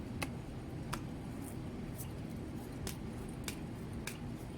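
Light sharp clicks and ticks from tarot cards being handled, about seven spread irregularly over a few seconds, over a steady low hum.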